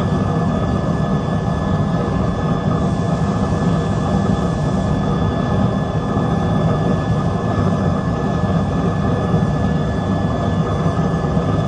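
Steady roar of the fire heating the glass to red heat, with a thin constant whistle above it.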